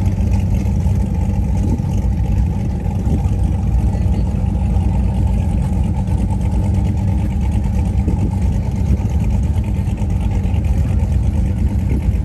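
A car engine running steadily at idle, its sound mostly low-pitched and even throughout.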